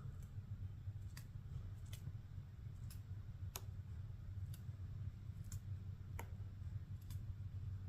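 Woodpecker pecking at wood: single sharp taps at roughly one a second, unevenly spaced, over a steady low rumble.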